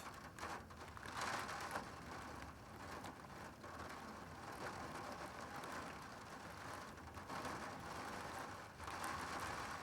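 Thunderstorm wind still blowing after severe gusts: a steady rushing noise that swells and eases.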